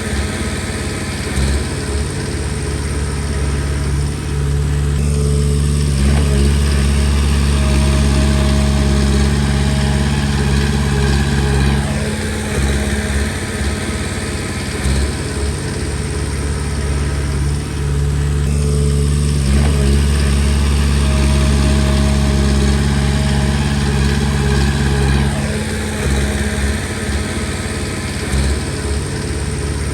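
Komatsu D20P crawler bulldozer's diesel engine running under working load, its pitch and loudness swelling and easing in a repeating cycle about every six to seven seconds as the dozer pushes stone.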